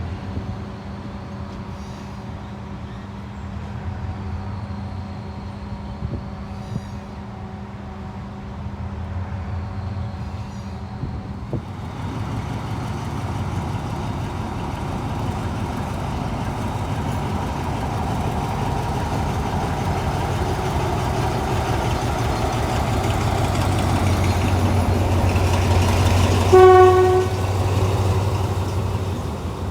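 Diesel locomotive engine running, first as a steady hum, then louder and rougher from about halfway, growing steadily. A short horn blast sounds near the end.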